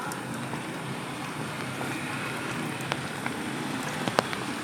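Steady rain falling, with scattered sharp drops ticking close by; the loudest tap comes a little past four seconds in.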